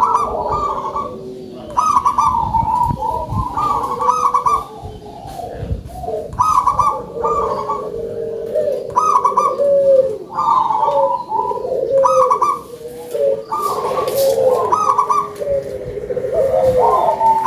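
Zebra doves (local perkutut) cooing, phrase after phrase with short breaks, the coos overlapping at different pitches.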